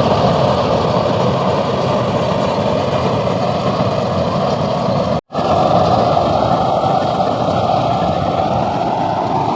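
Dasmesh 912 rice harvester driven by a John Deere 5310 tractor, running steadily with its diesel engine and threshing machinery working together. The sound drops out for a split second about five seconds in, then continues as before.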